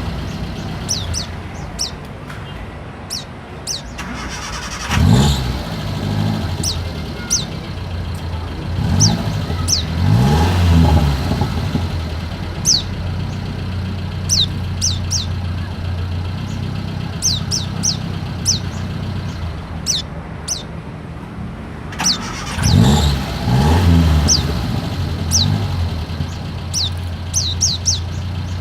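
Pleci (white-eye) giving short, high, falling chirps again and again, over a steady low engine hum. Vehicles rev past about five seconds in, around ten seconds in, and again after about twenty-two seconds.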